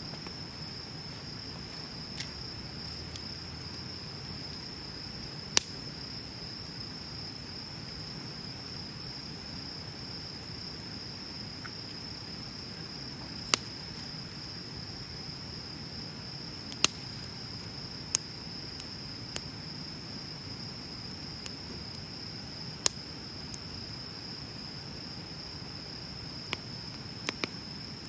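Wood bonfire burning with a low steady hiss and sharp, isolated pops of burning wood every few seconds, about a dozen in all.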